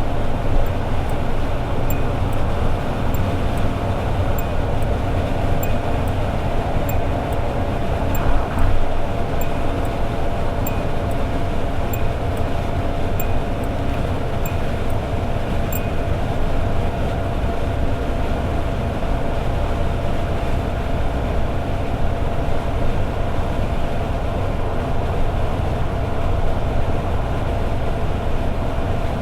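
Toyota AE86 Sprinter Trueno's four-cylinder 4A-GE engine holding a steady cruise at highway speed: a constant engine drone with one held tone over low road and tyre rumble. A faint regular ticking runs through the first half, and there is a single brief bump about eight seconds in.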